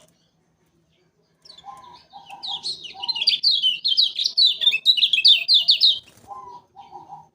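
Kecial kuning white-eye singing: a fast, loud run of repeated down-slurred high whistled notes, about three or four a second, starting about a second and a half in and stopping around six seconds. Lower short chirps come just before and just after the run.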